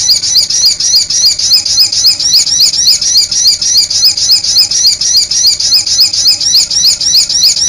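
Songbird singing a fast, steady string of short, sharp, rising notes, about five a second.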